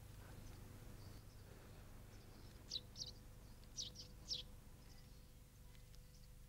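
Near silence, broken by four faint, short, high bird chirps between about three and four and a half seconds in.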